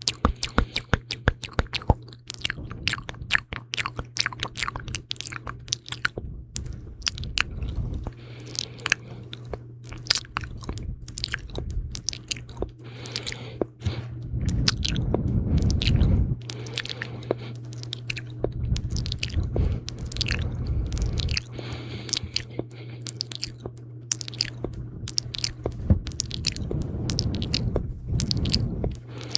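Close-up ASMR mouth sounds: a dense, irregular stream of wet clicks and smacks from the lips and tongue, several a second, with a few stretches of low rumble.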